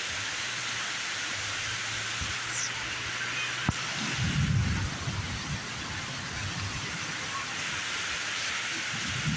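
Heavy thunderstorm rain, a steady hiss of downpour. A low rumble swells up about four seconds in and comes back near the end, and there is a single sharp click in the middle.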